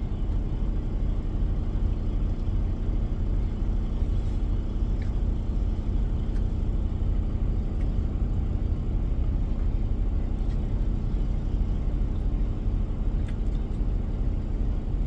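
Diesel semi-truck engine idling steadily, a low even rumble with no change.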